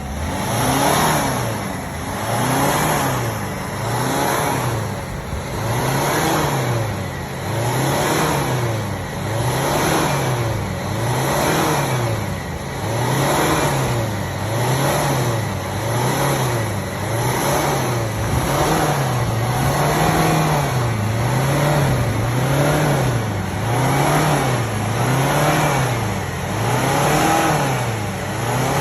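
A car engine being revved up and down over and over, its pitch rising and falling about once every two seconds, during a hydrogen decarbonising (carbon-cleaning) treatment.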